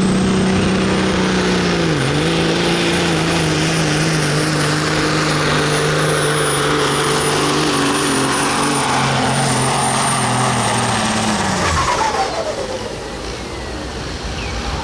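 Pro stock diesel semi truck pulling a sled at full throttle, its engine note dipping briefly about two seconds in and then sagging slowly as it loads down, with a high turbo whistle over it. Near the end the engine shuts off and the turbo whistle winds down.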